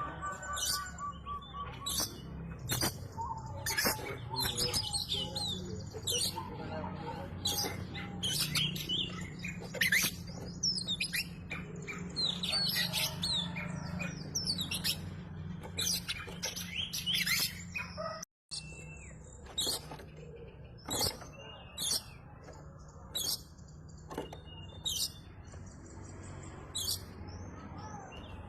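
Oriental magpie-robin (kacer) singing vigorously: a rapid, continuous run of varied whistles and chirps over a steady low hum, with a brief cut to silence about eighteen seconds in.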